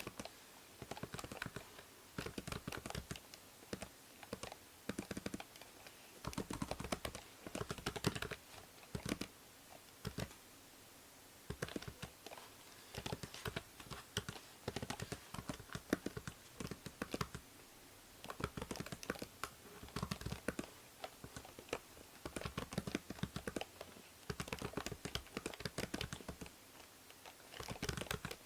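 Computer keyboard typing: runs of quick key clicks broken by short pauses, over a steady background hiss from the binaural microphone.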